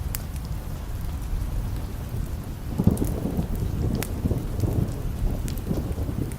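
Steady rain with a rumble of thunder that swells about three seconds in and rolls on for a few seconds, with a few scattered sharp clicks over it.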